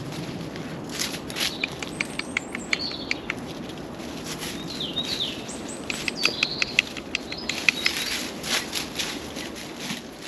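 Small birds chirping, their short calls sliding up and down, with quick runs of sharp ticks about a second in and again past the middle, over a steady outdoor hum.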